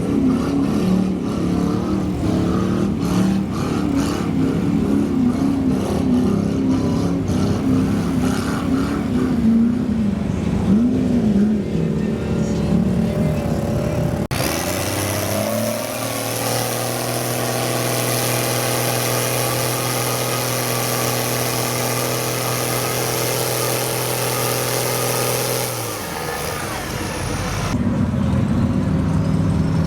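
Mud bog truck engines revving, the pitch swinging up and down. About halfway through, the sound cuts abruptly to an engine held at a steady high pitch for about ten seconds, then revving resumes near the end.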